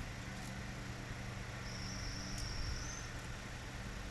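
A cricket's faint high trill lasting over a second, over a steady low background hum, with one light click midway.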